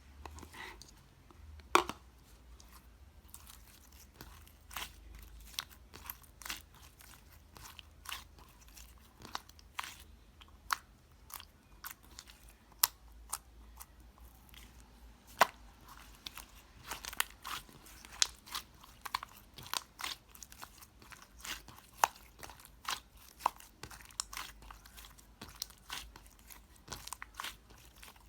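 Sky-blue and white slime with a tough, chewy texture being squeezed and poked by hand. It makes irregular crisp clicks and small pops, a few every second, denser and louder in the second half.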